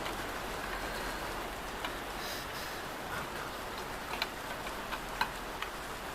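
A few light, sharp metallic clicks and taps from rear drum-brake parts being handled while the handbrake mechanism is refitted, the clearest about four and five seconds in, over a steady background hiss.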